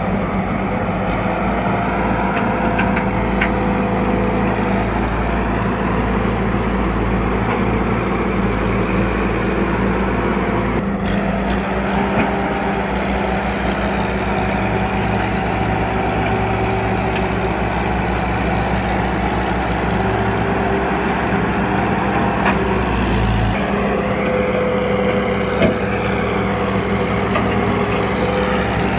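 Farm tractor's diesel engine running loudly and steadily, its note shifting about eleven seconds in and again some seconds before the end.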